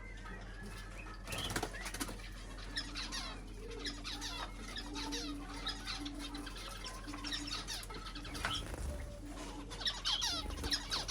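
Small birds chirping and twittering in quick, overlapping runs of short high notes, starting about a second in and running on densely.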